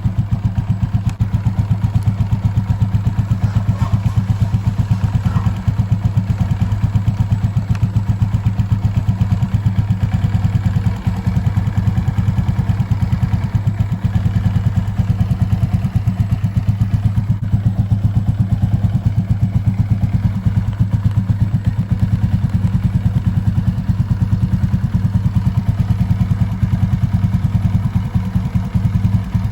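Suzuki Raider J Crossover's single-cylinder four-stroke engine idling steadily, with an even, regular exhaust beat.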